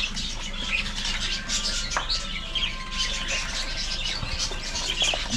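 A flock of caged small parrots, budgerigars and cockatiels, chattering and squawking continuously with many overlapping chirps.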